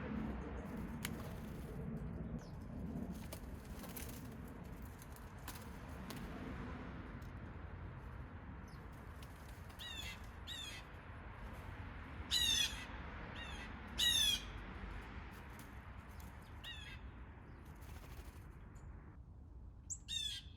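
Blue jays calling: a series of short, harsh jeers, the two loudest about twelve and fourteen seconds in, over a steady low background rumble with a few faint ticks.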